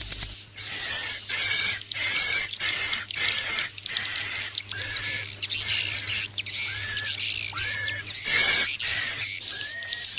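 Recorded edible-nest swiftlet calls, a roosting lure track mixed with a mating call, used by swiftlet farmers to draw birds into a nest house. Dense, fast high chirps and twitters repeat throughout, with short swooping calls about once a second.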